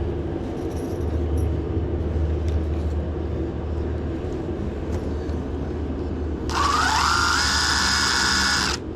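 Power drill spinning up with a rising whine, running steadily for about two seconds and stopping abruptly near the end, over a steady low drone.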